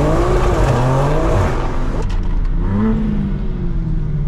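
BMW G82 M4's S58 twin-turbo inline-six through a full stainless Valvetronic exhaust, revving under acceleration: the pitch climbs, drops sharply about two seconds in, then climbs and falls again. The exhaust note is mellow, with little rasp.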